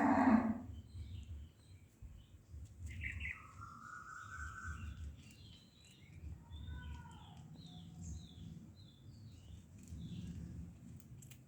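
Birds chirping and calling: many short whistled chirps, with one longer steady whistle about three seconds in and a few falling whistled notes later, over a low background rumble.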